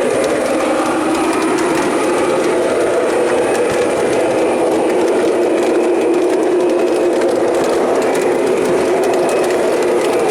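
O scale model train running along its track, a steady rolling hum of wheels and drive gearing on the rails with light clicking throughout.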